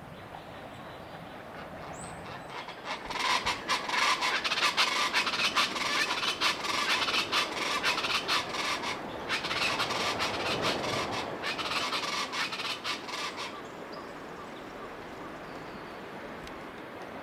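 Common chachalacas calling loudly in a dense run of rapid, repeated calls that starts about three seconds in and stops about ten seconds later.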